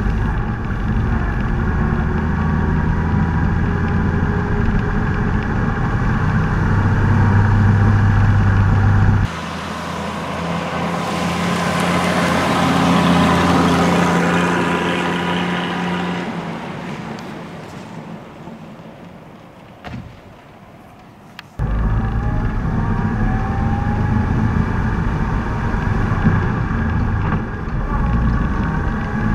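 The 1927 Rolls-Royce 20HP's straight-six engine running as the car is driven, heard close up with a whine that rises in pitch as it gathers speed. About nine seconds in the sound cuts to the car passing by: it swells, then fades away. About twenty-two seconds in it cuts back to the close, steady running.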